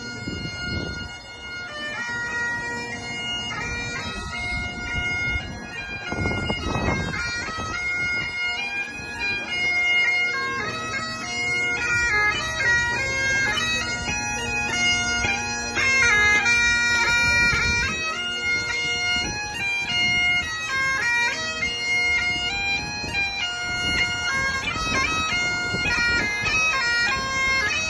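Bagpipes playing a tune, the melody stepping up and down over steady, unbroken drones.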